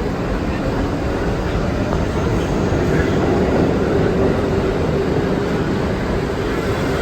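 R62 subway train running along the track: a steady, loud rumble with a faint steady hum underneath.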